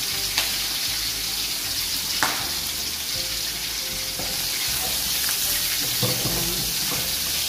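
Diced pork for sisig sizzling as it fries in a nonstick wok, a steady hiss, with two sharp clicks, one about half a second in and one about two seconds in. Near the end a spatula stirs the pieces in the pan.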